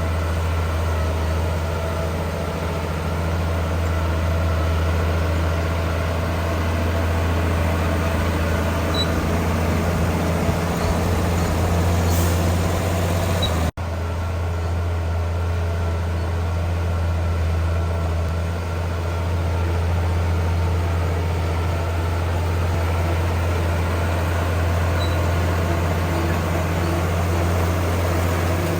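Heavy diesel engine of earthmoving machinery running steadily with a deep, even hum, broken by a momentary dropout about halfway through.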